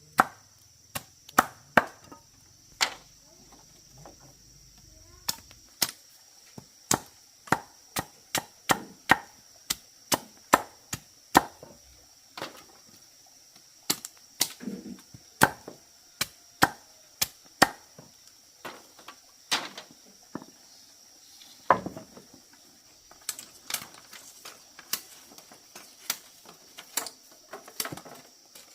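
Repeated chopping strokes of a blade, sharp separate blows at one to two a second with uneven pauses, over a steady high insect buzz.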